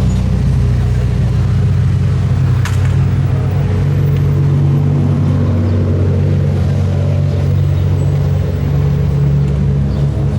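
Car engine running steadily at low revs, a deep, even drone with no revving.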